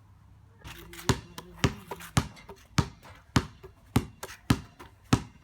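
An inflated ball bouncing repeatedly on a hard floor, starting about a second in, with about eight even bounces at a little under two a second.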